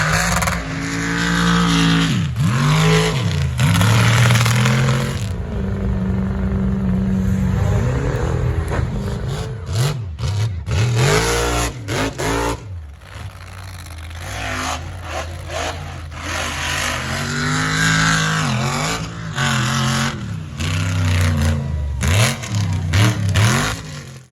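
Mega truck engines revving hard and falling back over and over, the pitch swooping up and down, with a few sharp knocks and clatters about ten seconds in.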